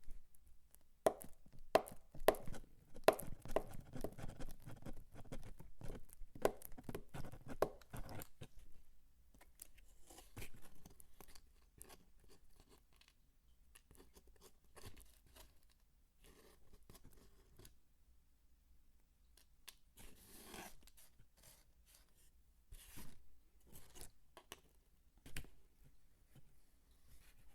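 Dry bar soap being cut and crumbled by hand: a quick run of crisp crunches and clicks for about the first eight seconds, then sparser crackles and scraping.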